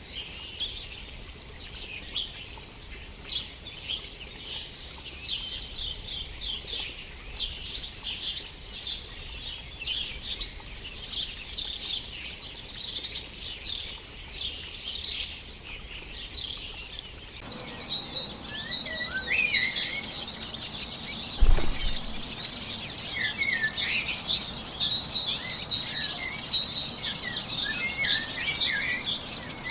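Many small birds chirping in quick, high notes. About two-thirds of the way in the background changes abruptly and the chirping becomes denser and louder, with some short falling notes, and a single low thump follows a few seconds later.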